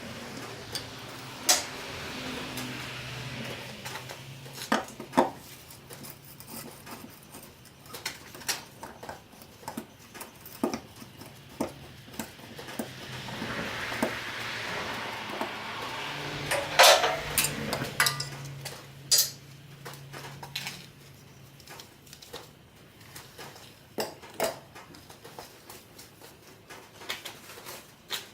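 Metal tools and parts clinking and knocking in scattered sharp strikes, the loudest cluster about two-thirds of the way through, over a low steady hum that comes and goes.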